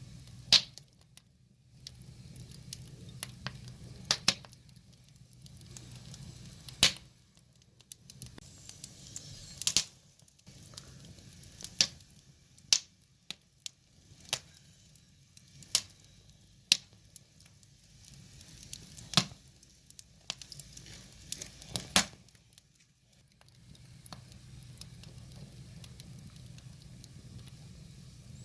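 Wood fire crackling, with sharp irregular pops every second or two over a low steady hiss of burning logs.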